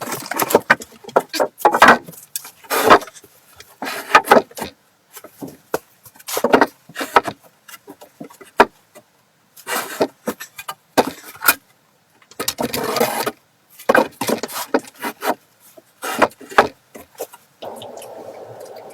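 Irregular scraping and knocking strokes, some in quick runs and some about a second long, with short pauses between them; a steady hiss comes in near the end.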